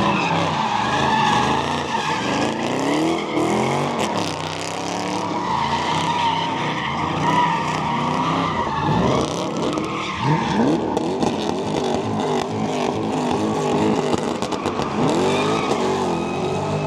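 Cars doing donuts and drifting: tyres squeal steadily while several engines rev up and down.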